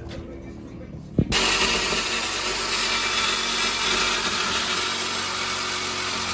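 A sharp clink about a second in, then a power tool starts and runs steadily with a harsh, hissing noise until it cuts off suddenly at the end.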